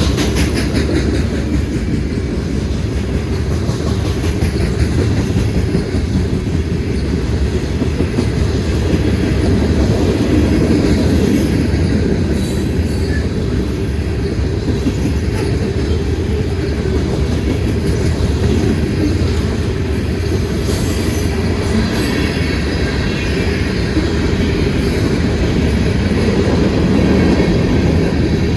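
Norfolk Southern freight train rolling past with a steady, loud rumble of cars on the rails and the clickety-clack of wheels over rail joints.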